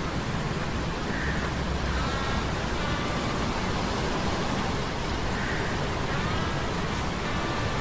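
Sea-storm ambience: a steady, dense rush of rain and surf noise with a heavy low rumble. A faint whining tone rises and levels off twice, about four seconds apart.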